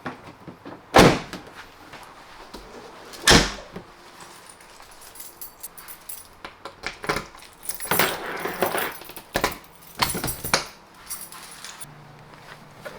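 Camping gear being handled: two loud knocks about two seconds apart, then a run of metallic clinks and jangling rattles.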